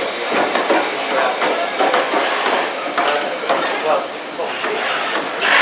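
Background chatter of people mixed with railway noise, with a short, loud hiss near the end.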